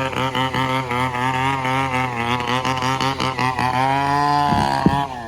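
Komatsu D68ESS bulldozer's diesel engine running hard under load, its pitch wavering. Near the end there are two sharp knocks and the engine note starts to drop.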